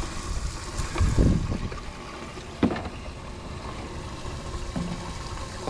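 Water sloshing around a small fishing boat, with wind rumbling on the microphone that gusts about a second in, and a single sharp knock about two and a half seconds in.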